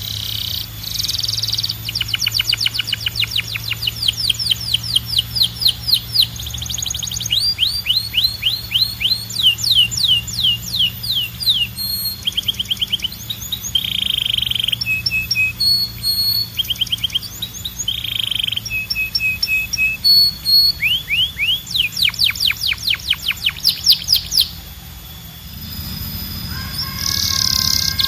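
Domestic canary singing a long, loud song of rapid trills, each a quick run of repeated down-slurred whistled notes. Short buzzy rolls and brief pauses fall between the trills, and the song stops about 25 seconds in.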